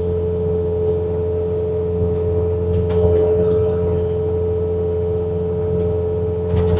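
Bobcat T66 track loader's engine running at full throttle, driving its snowblower attachment, heard from inside the cab as a steady low drone with a steady high whine on top.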